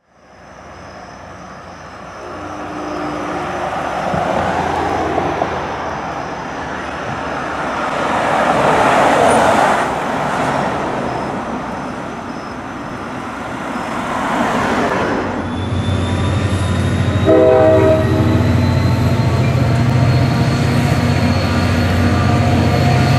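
Traffic passing in waves, then a commuter train arriving at the crossing: a steady low rumble starts about two-thirds of the way through, a short horn blast sounds soon after, and a thin high whine runs above them.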